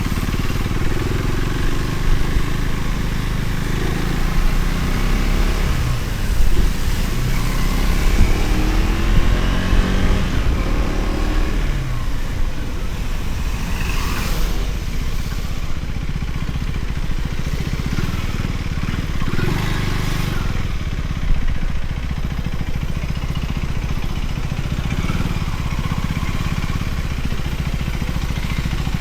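Motorcycle engine running while riding, with road and wind noise. A few seconds in, its pitch rises as it accelerates, and two brief rushing sounds come later.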